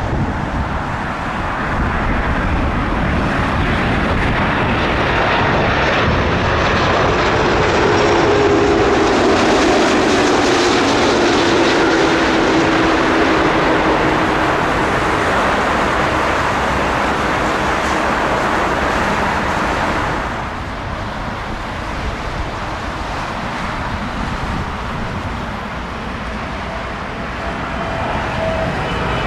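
A jet airliner passing overhead. Its engine noise swells to a peak, where a tone slides down in pitch, and falls away sharply about two-thirds of the way through.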